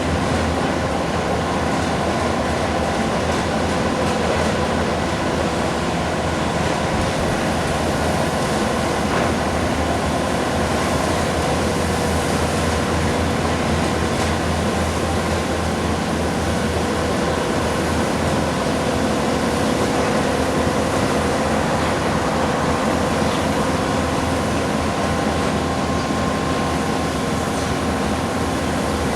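Bobcat skid-steer loaders running steadily while doing road-milling and sweeping work: a continuous loud machine drone with a rough mechanical noise that holds steady throughout.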